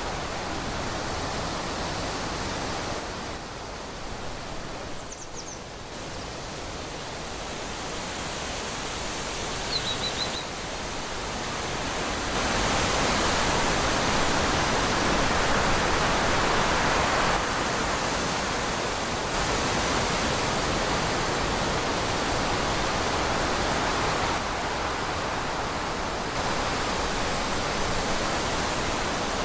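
Steady wind rushing through trees, swelling louder about twelve seconds in, with two faint brief bird chirps, about five and ten seconds in.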